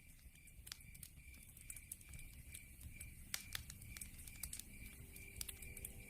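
Log fire crackling, with scattered sharp pops over a low rumble of burning wood. A regular high chirp repeats about two or three times a second behind it.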